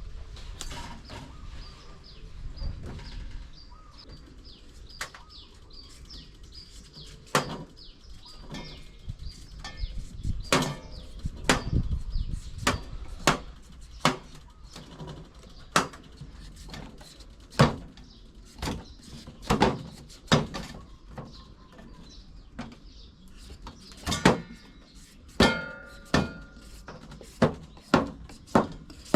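Knife chopping green papaya: sharp knocks at uneven intervals, about one or two a second, a few with a short ring. Birds chirp faintly near the start.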